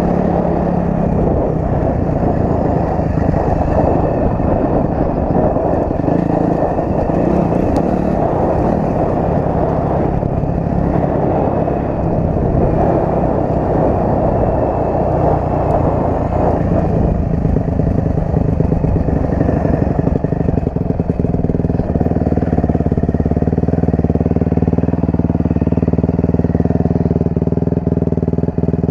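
Honda CRF250R four-stroke dirt bike engine running under way, mixed with rough, noisy rumble in the first half; from about two-thirds of the way through the engine note turns steady.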